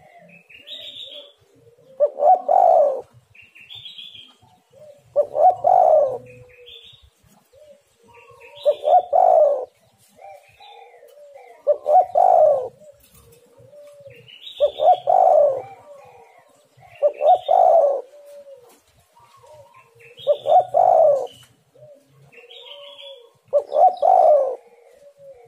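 Spotted dove (tekukur) cooing its repeated call phrase, one phrase about every three seconds, eight in all. Fainter, higher chirps come between the phrases.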